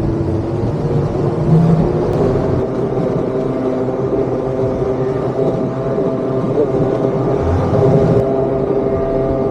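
A motorised surfboard's (motosurf) petrol engine running steadily at a fairly constant pitch.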